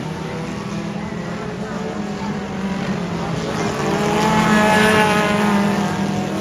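Dirt-track race cars running at speed, several engines at once. The sound swells about four seconds in as a car passes close, its engine note rising and then falling.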